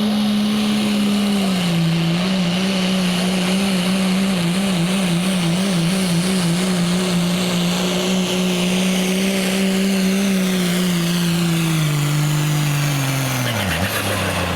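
Diesel pulling truck engine held at high revs under full load while pulling the sled, its pitch wavering in the middle. Over the last few seconds the revs fall steeply as the truck bogs down and comes off the throttle, with a high whine sliding slowly down in pitch.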